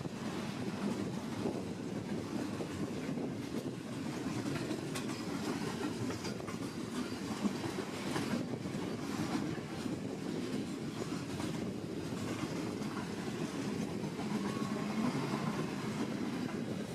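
A train rolling past steadily, its wheels clicking over the rail joints.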